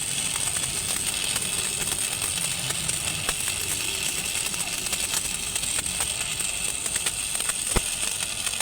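Steady machinery noise with a high hiss, and scattered light clicks and taps; one sharper knock near the end.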